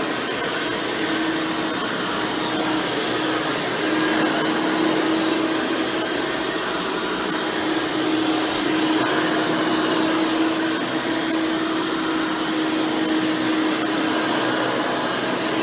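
Hoover Elite Supreme upright vacuum running steadily, its motor with an upgraded 20-blade fan and its single-row stiff-bristle brush roll giving a constant rush of air with a steady hum.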